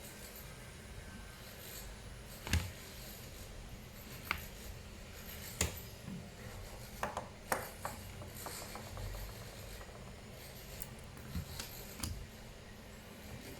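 Scattered sharp clicks and short scrapes of small tools and plastic laptop parts being handled during disassembly, over a low steady hum.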